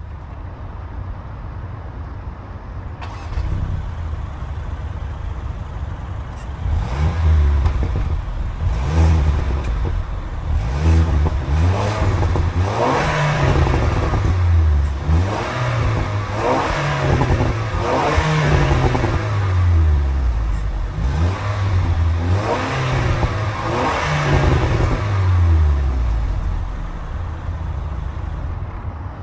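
2016 Range Rover Evoque's 2.0-litre turbocharged four-cylinder engine running, then revved again and again, each rev climbing and falling back to idle about every two seconds, to show off the exhaust note.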